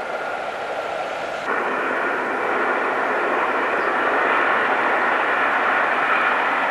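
Diesel locomotive running, a steady loud mechanical noise with a faint whine in it. About a second and a half in the sound changes suddenly and then grows a little louder.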